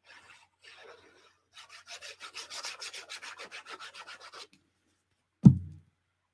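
Quick back-and-forth rubbing on paper: two short rubs, then about three seconds of even strokes at about six a second. About five and a half seconds in comes a single sharp thump, the loudest sound.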